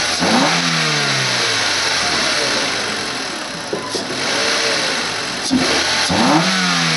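Mitsubishi Colt 1.3-litre 4A90 inline-four petrol engine running and revved twice, once just after the start and again near the end, each time the revs falling back toward idle.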